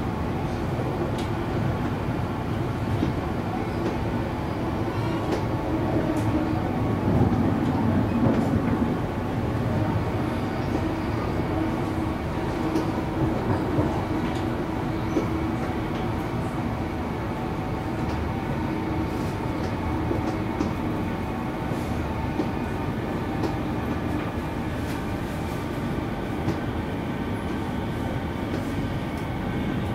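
Cabin noise of a Siemens electric multiple unit running on the rails: a steady rumble with a few steady tones held at one pitch and faint clicks now and then. It swells a little about seven to nine seconds in.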